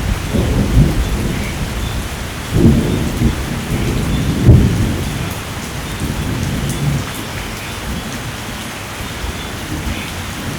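Steady rain with rolling thunder: low rumbles swell several times in the first half, the loudest about four and a half seconds in, then fade into the rain.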